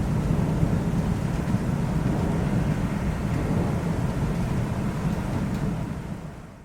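Thunderstorm ambience: a low, continuous rumble of thunder under a haze of rain, fading out near the end.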